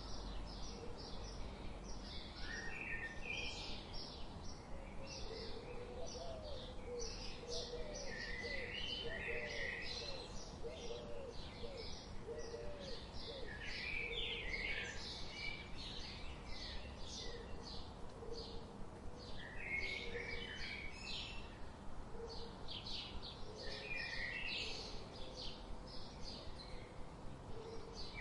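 Forest birdsong: many small birds chirping and singing in quick short notes, overlapping one another, over a faint steady background hiss. In the middle comes a run of lower, quick rising-and-falling notes.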